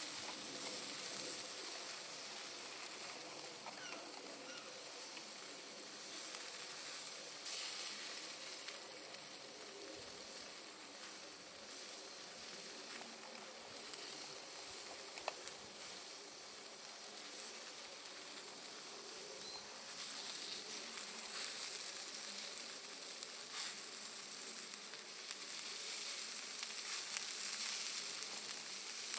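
Charcoal and wood fire burning with a steady hissing sizzle and many small crackles and pops from Iwate cut charcoal, with one sharper pop about halfway through; the fire grows a little louder near the end.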